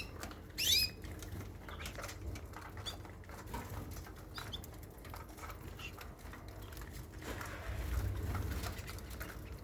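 Caged canaries: one loud sweeping chirp less than a second in, then scattered short chirps over fluttering wings and the light pattering of small clicks, with a steady low hum beneath.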